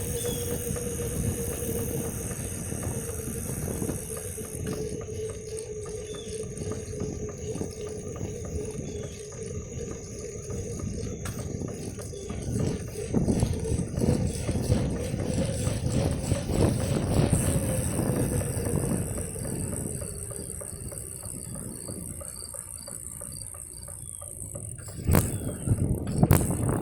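Bicycle rattling as it rolls over a bumpy road, with a steady high-pitched buzz in the background. A couple of sharp knocks come near the end.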